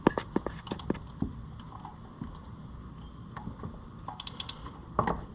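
Sharp metallic clicks and knocks of hand tools and engine parts being handled during reassembly of an ATV engine's valve area: a quick run of clicks at the start, a few light ticks about four seconds in, and a knock near the end.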